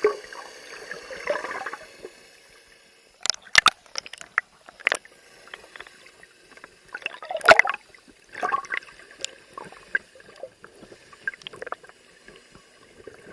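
Water sloshing and gurgling, with a scattering of sharp clicks and knocks; the loudest splash-like burst comes about halfway through.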